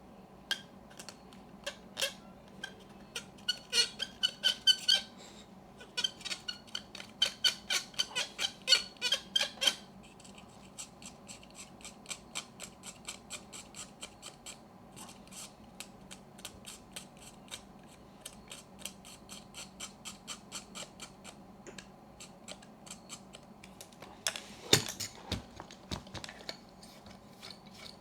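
The dull side of a knife blade scraping crumbling old foam light seals out of a Yashica Electro 35 GSN camera body, in quick short strokes at several a second. The scraping comes in two harder runs in the first ten seconds, then goes on more lightly, and there is a single louder knock near the end.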